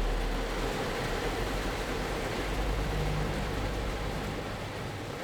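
Rain falling on a car, heard from inside the cabin: a steady, even hiss of drops on the roof and glass over a low rumble.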